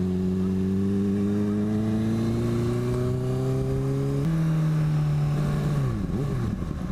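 Motorcycle engine pulling under acceleration, its pitch rising steadily, then an upshift about four seconds in. Near the end the engine note falls and wavers as the bike slows.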